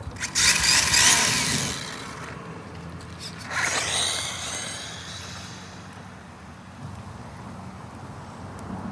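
Losi Mini-B electric RC buggy with a 7200kv brushless motor on a 3S battery speeding past twice: a high-pitched motor whine rushes by about half a second in, and again about three and a half seconds in, its pitch falling as it passes and fades.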